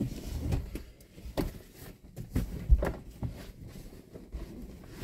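Irregular knocks, clicks and low thumps of someone moving about and handling things inside a camper van, the sharpest knock about two and a half seconds in.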